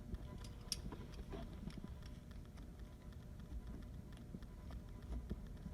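Faint, scattered light clicks and scrapes of a hand tool working a metal insert loose from its housing, with the clearest click about three-quarters of a second in.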